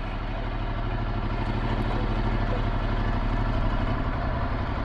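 Ducati Multistrada 1260S's V-twin engine running steadily under way, getting a little louder over the first two seconds and then holding level.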